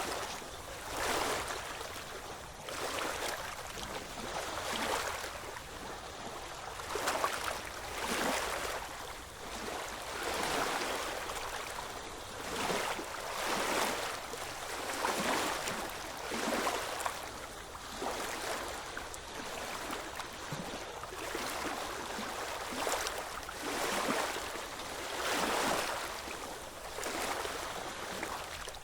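Small ocean waves washing in, a steady rush of water that swells and fades every second or two.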